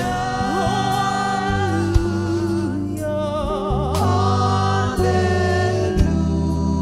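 Gospel worship music: a singer holds long, wavering notes over keyboard and bass, with a drum hit about once a second.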